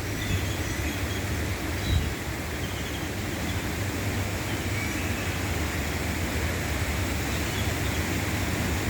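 Steady rush of a small waterfall and water running over rocks, with faint bird chirps over it.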